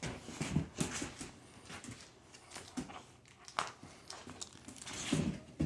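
A dog chewing a crunchy plush chicken toy: scattered crinkling and crunching clicks at irregular intervals.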